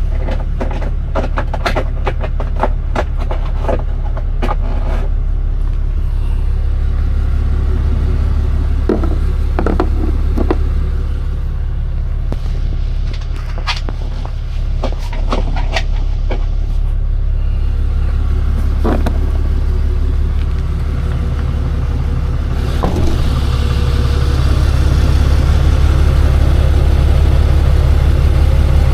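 Tow truck engine idling with a steady low drone. A run of rapid metallic clicks comes in the first few seconds, and a few sharp clanks follow over the next several seconds. About three-quarters of the way through, the engine sound grows louder and fuller.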